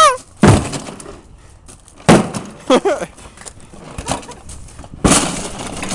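A refrigerator being struck with heavy, crashing blows: three loud hits a second and a half to three seconds apart, with a lighter knock between the last two. A short yell follows the second blow.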